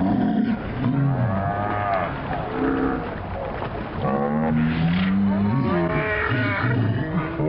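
Several people crying out without words: long drawn-out exclamations and yells, one voice after another, over a steady rush of surf.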